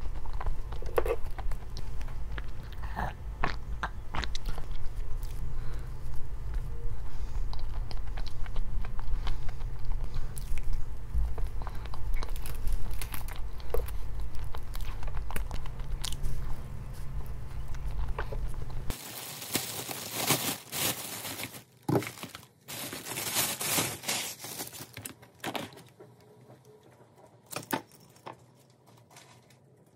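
Close-up eating sounds: a person biting, crunching and chewing food near the microphone, heard as many short clicks and crackles. A steady low hum underneath cuts off suddenly about two-thirds of the way through, and louder crunching or rustling follows before the sounds thin out.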